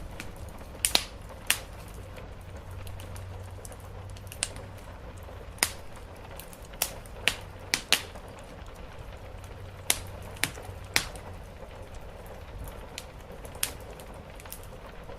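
Wood fire crackling in a fireplace: about a dozen irregular sharp pops and snaps, with a bunch of them between about seven and eleven seconds in, over a steady low rumbling background.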